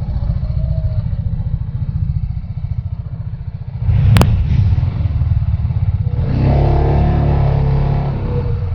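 Benelli TNT 600i's inline-four engine running under way, with a sharp click about four seconds in; the engine grows louder after it and again about two seconds later.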